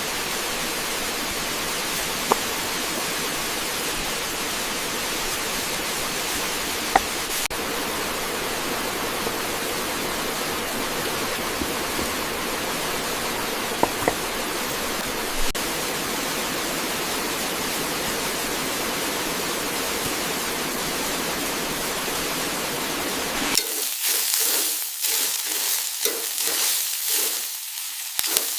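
Bulgogi beef frying in a hot pan: a steady sizzle with a few sharp pops. About 23 seconds in it turns to a choppier, uneven sizzle, as when the meat is stirred.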